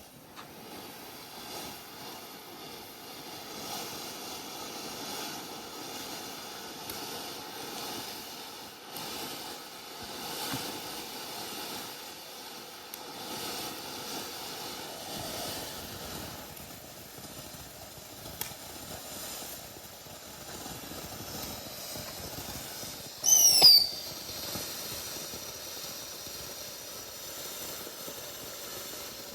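Pipsqueak consumer firework burning with a steady hiss, with one brief, loud, falling whistle about 23 seconds in.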